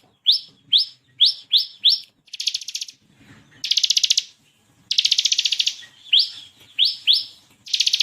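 Bar-winged prinia (ciblek kristal) singing loudly. Quick runs of short, sharply rising notes alternate with fast, machine-gun-like rattling trills, each trill half a second to a second long.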